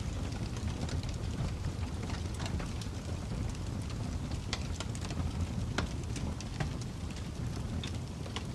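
Fire crackling: a steady low rumble of burning with irregular sharp pops and snaps throughout.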